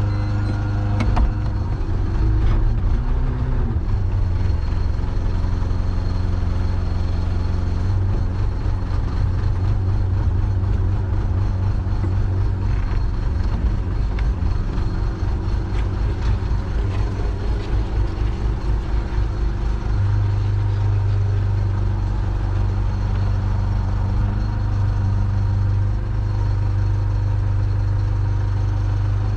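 Engine running steadily at idle, its low hum growing louder about twenty seconds in. A couple of sharp knocks come a second or two in.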